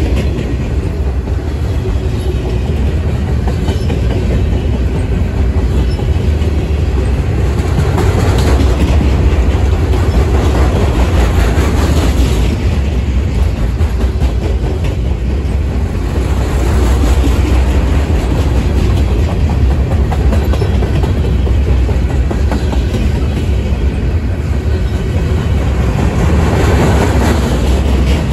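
Freight train of double-stack intermodal well cars rolling past at close range: a loud, steady low rumble of steel wheels on rail, with light clicking as the wheels cross rail joints.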